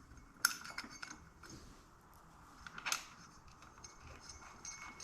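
Small steel clutch parts clinking as they are fitted to a motorcycle clutch assembly: two sharper metal clicks, about half a second and three seconds in, with faint ticks between.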